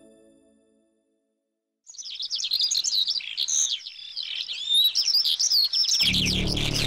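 Music fading out, a moment of silence, then a dense chorus of small birds chirping rapidly, many calls overlapping. Background music starts again under the birds near the end.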